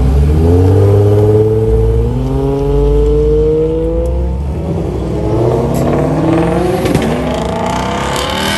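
Toyota Supra (fourth generation) straight-six accelerating hard away: it revs up, drops briefly at a gear change about two seconds in, then revs up again. The note fades about four seconds in, and another car's engine is heard rising more faintly under road noise.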